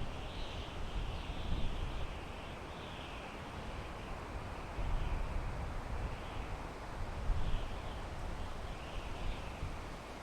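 Wind blowing through pine trees: a rushing hiss that swells and eases in gusts, over a low rumble of wind on the microphone.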